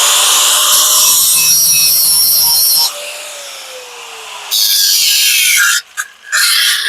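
A power tool spins up and cuts into aluminum with a loud, hissing grind, its motor tone steady under the cut. About three seconds in the cut stops and the motor's pitch falls slowly as it winds down. Further short bursts of grinding follow.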